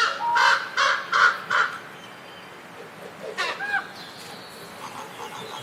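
Crow cawing: a quick run of four caws at the start, a single gliding call about three and a half seconds in, then fainter calls near the end.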